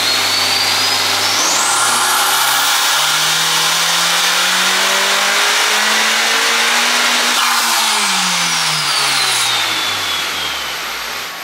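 Big-turbo (PRL P600) Honda Civic Type R FK8 turbocharged 2.0-litre four-cylinder making a full-throttle pull on a hub dyno. It idles for about a second, climbs steadily in pitch for about six seconds, then falls back toward idle, with a high whine rising and falling along with the engine.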